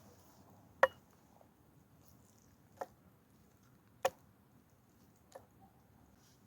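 Four single knife chops on a wooden cutting board, sharp separate knocks one to two seconds apart, the first and third loudest.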